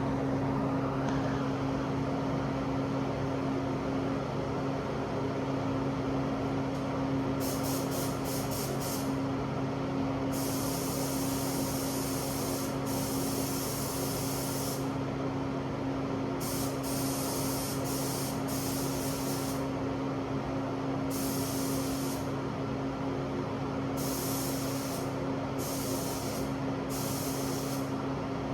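Spray gun spraying sealer in repeated hissing bursts of a second or two, starting and stopping as the trigger is pulled, over a steady low motor hum.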